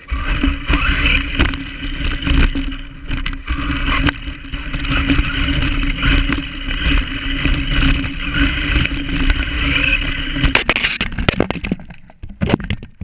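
Foxx S911 RC monster truck driving, its small electric motor and gears giving a steady whine over scraping and crackling from the tyres on the ground. The whine stops about eleven seconds in, leaving a few knocks.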